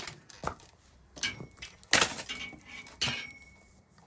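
A burnt, microwaved toaster being pried and broken apart: a series of sharp cracks and knocks, the loudest about two seconds in, two of them followed by a brief metallic ring.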